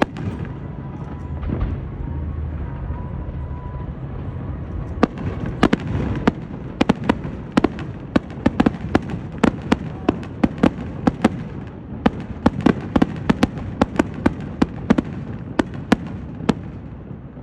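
Aerial fireworks going off: a low rumble of bursts at first, then from about five seconds in a rapid barrage of sharp bangs and cracks, several a second, easing off near the end.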